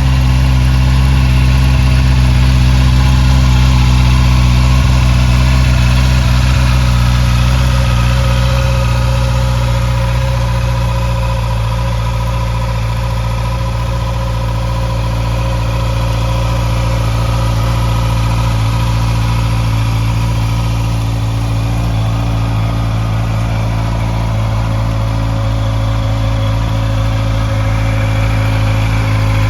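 Honda CB650R's inline-four engine idling steadily.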